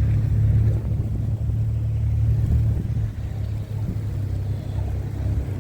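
Wind buffeting the microphone in a blowing snowstorm, a loud, shifting low rumble that eases near the end.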